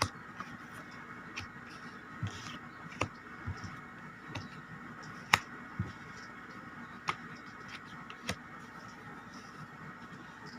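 Tarot cards being handled and laid down on a table: scattered soft taps and card flicks, about eight over ten seconds, over a faint steady background hum.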